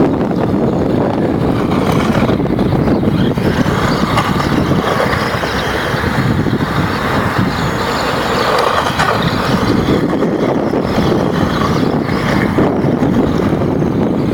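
Small engine of a string-trimmer-powered toy monster truck running, a steady, rough, unbroken noise.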